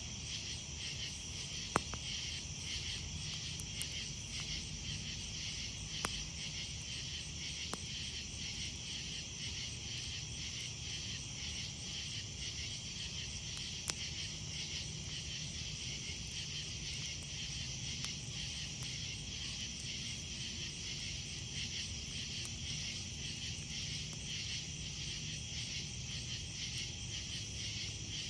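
Night insects, crickets, chirping in a steady, fast-pulsing chorus, with a campfire's wood giving a few sharp pops and snaps.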